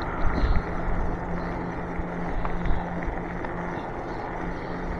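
Electric bike in motion: steady wind and road rumble with a constant low hum, a few short knocks about half a second in.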